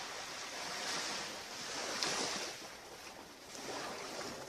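Ocean surf breaking and washing up the beach, swelling loudest about two seconds in and again near the end.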